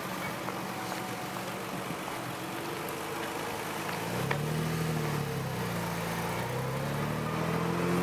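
Nissan Skyline GT-R R33's twin-turbo RB26DETT straight-six running as the car pulls away at low speed. The note is steady at first, then the revs rise and fall twice from about halfway through.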